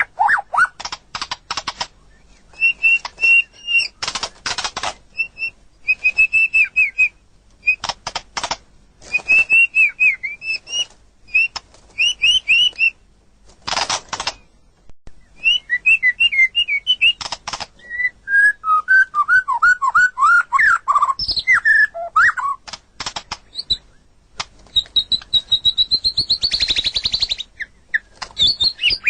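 White-rumped shama singing a varied song: rapid clicking rattles between short whistled phrases, a run of falling notes past the middle, and a high trill near the end.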